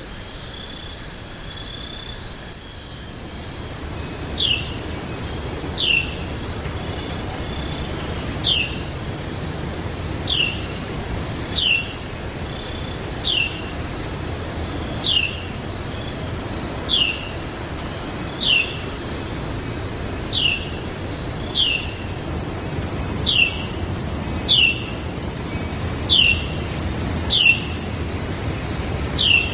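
A bird repeating a single short, clear, downslurred whistle over and over, about every one and a half seconds, starting about four seconds in. Under it runs a steady high insect drone that stops about three quarters of the way through, and a steady low rushing background.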